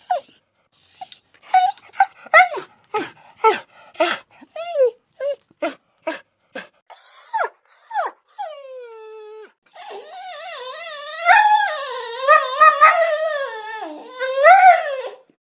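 A dog whining. First comes a quick run of short whimpers, about three a second, then a few longer whines that fall in pitch. Over the last five seconds there is one long, wavering whine that stops just before the end.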